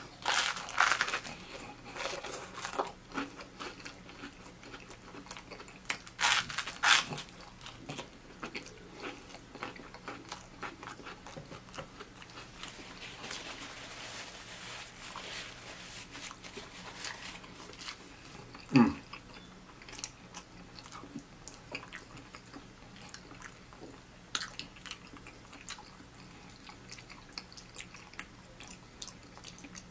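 Close-up eating sounds: biting into crunchy toasted Texas toast topped with cheesy macaroni, then chewing, with crackly crunches thickest near the start and again a few seconds in. A soft rubbing in the middle fits a paper napkin wiped across the mouth, and a single sharp knock about two-thirds of the way through is the loudest sound.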